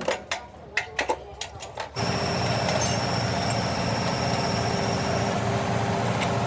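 A few sharp clicks and knocks, then about two seconds in a road roller's diesel engine starts up suddenly and runs on steadily with an even rhythmic clatter.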